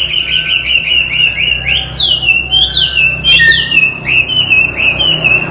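Chinese hwamei singing: a fast run of loud whistled notes, several a second, turning into repeated downward-sliding whistles about halfway through, over a faint steady low hum.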